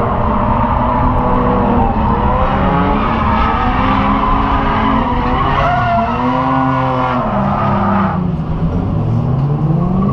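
Car tyres squealing in a drift, over a running engine, several pitches sliding up and down in overlapping arcs.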